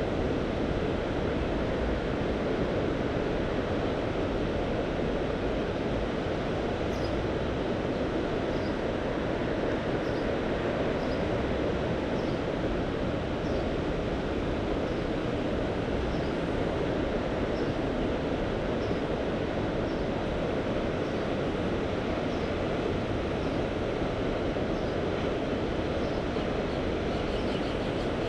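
Steady wash of sea surf and wind, an even rushing noise with no distinct wave breaks. From about seven seconds in, faint short high chirps repeat roughly once a second.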